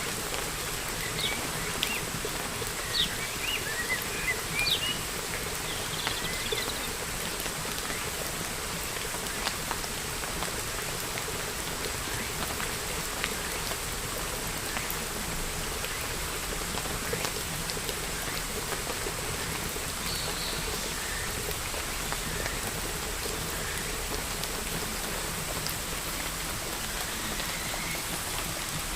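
Steady rain falling and pattering, with a few brief chirps of birds in the first few seconds and again around twenty seconds in.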